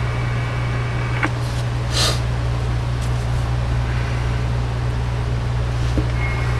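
Steady low electrical mains hum with a hiss over it. A faint high tone stops with a click about a second in, a short burst of hiss follows, and there is another small click near the end.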